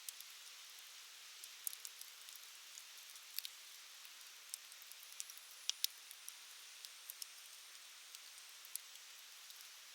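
Wood fire burning in a stainless-mesh fire stand: a soft steady hiss of flame with irregular sharp crackles and pops from the burning wood, a few louder pops a little past the middle.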